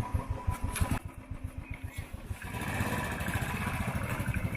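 Motorcycle engine running with a low, even thudding beat, then picking up and getting louder about two and a half seconds in as the bike pulls away.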